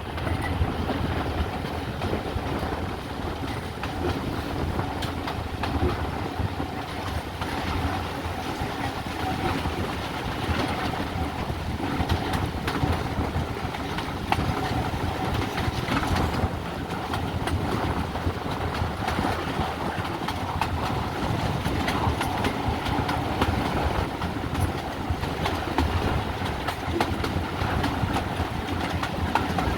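Steam-hauled passenger train running steadily along the track: a continuous rolling rumble with the wheels clicking over rail joints.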